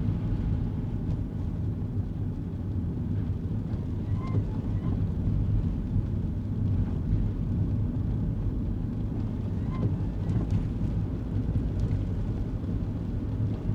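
Kei car cabin while driving: a steady low road-and-engine rumble. About every five seconds comes a short pair of squeaky chirps, typical of windshield wipers sweeping on an intermittent setting in the rain.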